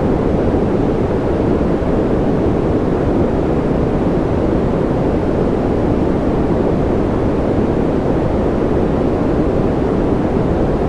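Steady, unchanging white-noise track: an even, loud rushing hiss with no tones or rhythm, its weight in the low and middle range and the treble rolled off.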